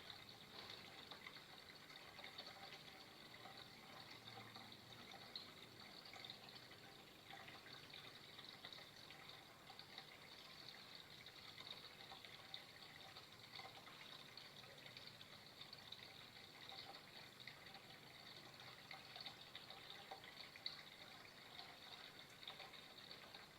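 Faint water flowing and trickling steadily, with a constant splashing flicker.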